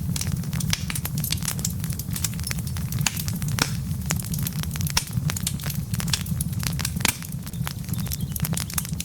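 Burning wood logs in a fireplace crackling, with frequent irregular sharp pops over a steady low rumble.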